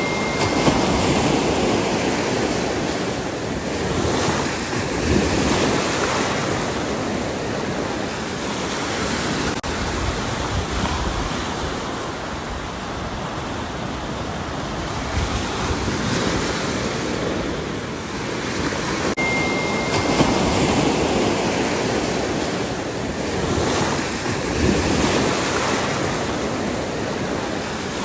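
Ocean surf: waves breaking and washing up a shore in a continuous rush that swells and ebbs, with louder surges at the start and again about two-thirds of the way through.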